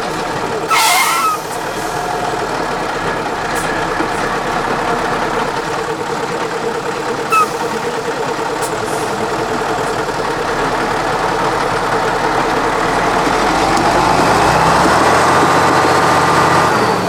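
Heavy off-road trial truck's diesel engine running steadily, then revving up louder with rising pitch near the end. A short, loud burst of hissing noise comes about a second in.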